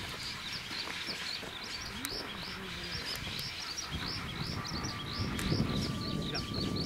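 A bird chirping rapidly and steadily, short high chirps about three a second, over a low rumble.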